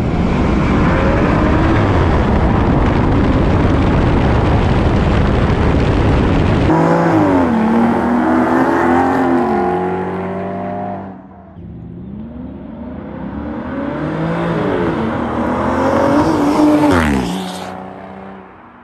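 Aston Martin Rapide V12 and Maserati GranTurismo V8 accelerating hard together from a standstill. Engine revs climb and fall back with each upshift, several times over, loud throughout.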